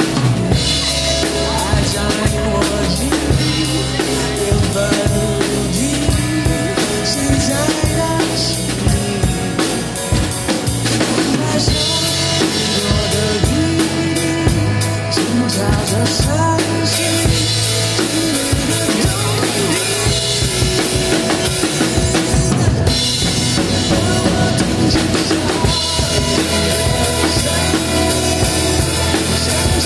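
Music of a pop ballad with a prominent drum kit playing a steady beat of bass drum, snare and rimshots over sustained band parts.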